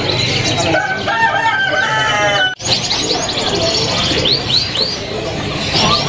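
Many caged birds calling at once: a mix of high chirps and whistles, with a longer, lower layered call about a second in. The sound cuts out abruptly for an instant about halfway through, after which a run of evenly repeated arched chirps, about three a second, comes to the fore.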